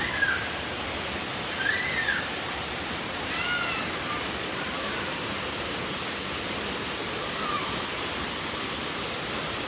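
Steady rushing roar of a large waterfall. A few short high calls rise and fall over it, the clearest about two and three and a half seconds in.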